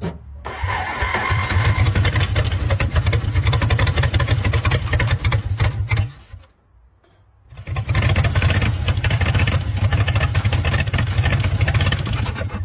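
Old car engine, missing two pistons after 59 years underwater, running rough. It cuts out about six seconds in and runs again a second and a half later.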